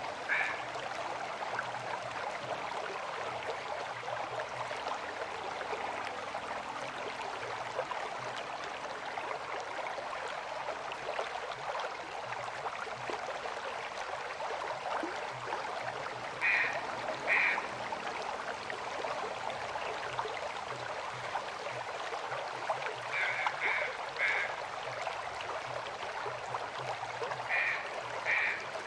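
River water flowing steadily. Short animal calls break in a few times, singly or in twos and threes.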